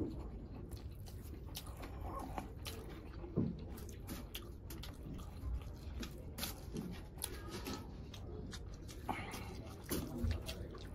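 Close-mic chewing and lip-smacking of a mouthful of rice and chicken curry: a string of wet mouth clicks, with a few louder smacks.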